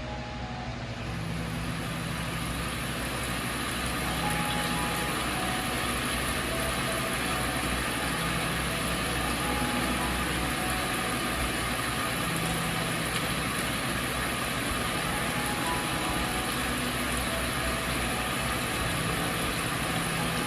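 Google Home smart speaker playing a recorded rainfall sound for sleep: a steady hiss of rain that fades in over the first few seconds, then holds.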